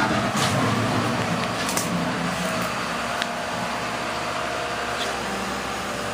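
A motor vehicle engine running steadily, with a low hum and a few faint clicks and knocks.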